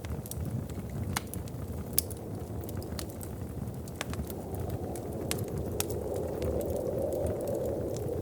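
Wood fire crackling, with irregular sharp pops over a low steady rumble. A soft wind swells in from about halfway through and grows louder near the end.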